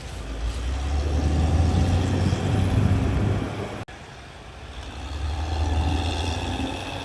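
Diesel engine of a CAT D6R XL crawler bulldozer working under load, its low drone rising and falling twice with a brief break about four seconds in.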